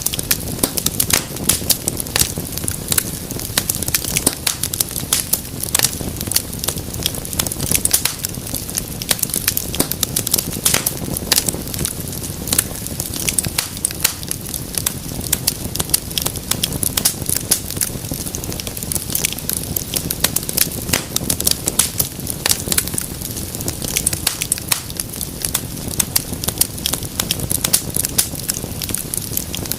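Wood fire in a fireplace crackling steadily: a dense run of sharp pops and snaps over a low rumble of burning.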